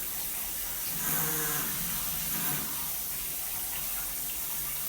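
Shower water running steadily, with a low moaning hum that swells about a second in and again near the end. The hum is a vibration in the shower valve's cartridge, and it picks up when hot and cold water are mixed.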